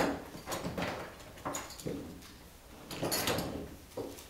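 A series of short knocks, clunks and scrapes, loudest about three seconds in, with a few faint voice sounds between them.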